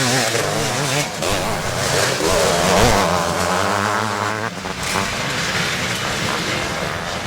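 Several vintage motocross bikes racing, their engines revving up and down and overlapping as they are throttled and shifted around the track.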